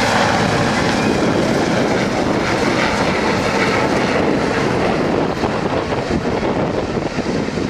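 Rescue helicopter running close by, a loud steady rotor and turbine noise that eases slightly about five seconds in.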